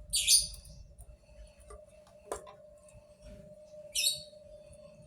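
Two short high-pitched chirps, one near the start and one about four seconds in, with a single sharp click between them.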